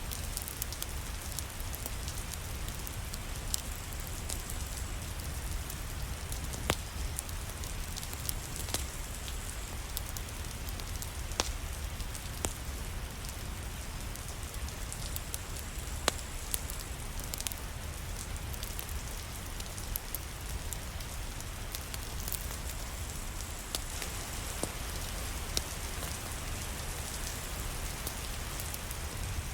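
Steady rain falling with a low rumble beneath it, and scattered sharp pops and crackles of a fireplace fire.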